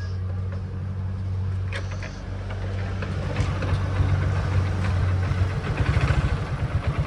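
Hero Glamour's 125 cc single-cylinder engine running with its adjuster just refitted, as a check on the engine noise complaint. A steady low hum gives way, about five and a half seconds in, to a stronger, even thumping pulse.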